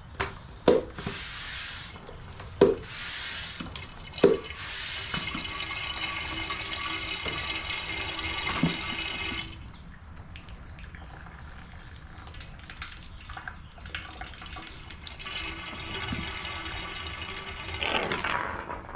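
Dark used engine oil being sucked out of a Honda EU2000i generator's crankcase through a hose with a suction pump. It begins with three pump strokes, each a knock and a hiss of air. Then comes a steady slurping of oil and air through the hose, which fades for a few seconds and picks up again near the end.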